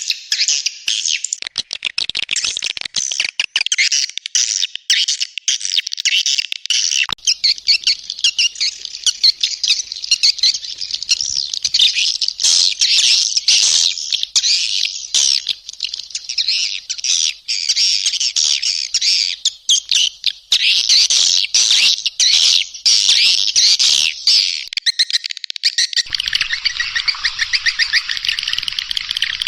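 Recorded swiftlet calls, a dense, unbroken chatter of rapid high chirps and twitters from many edible-nest swiftlets, mixed as a lure track to draw the birds into a nesting house. Near the end the mix changes to a denser, lower-reaching trill.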